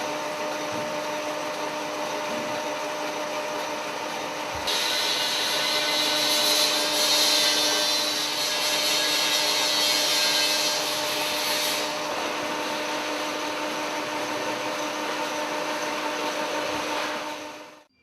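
Ruwac SPS250 industrial metal-chip and coolant vacuum running, with a steady motor hum. About five seconds in, a louder, hissing rush of air joins it for some seven seconds, then the sound settles back to the steady run and fades out near the end.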